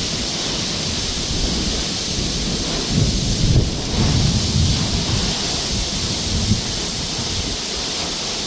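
Heavy rain hissing steadily in strong storm winds, with gusts buffeting the microphone in low rumbles that swell about three seconds in and again later.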